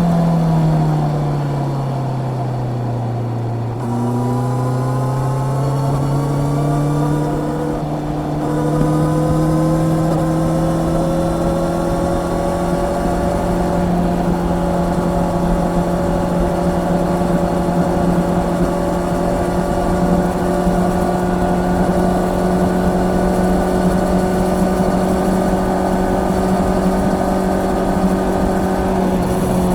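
Honda CB650R's inline-four engine heard on board while riding: the revs fall for about three seconds, dip briefly about four seconds in, then climb again. After a short break near eight seconds the engine holds a steady pitch at cruising speed.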